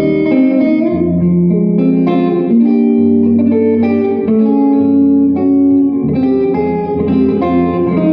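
Live blues guitar playing an instrumental passage: ringing, held notes moving over a low bass line, with some room reverberation.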